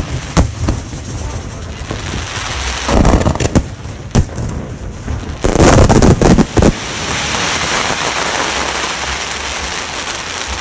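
Fireworks going off in quick succession: sharp bangs over a continuous crackle. The loudest blasts come about three seconds in and again around six seconds.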